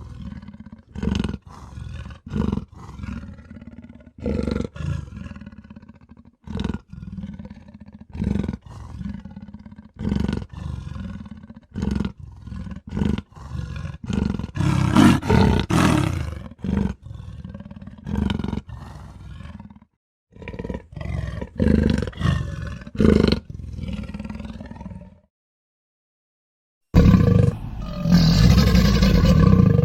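A string of short monster growls and roar-like grunts for a cartoon monster, each call separate and about half a second to a second apart, with a longer, louder roar about halfway through. The sound cuts out for about two seconds near the end, then a loud, drawn-out roar starts.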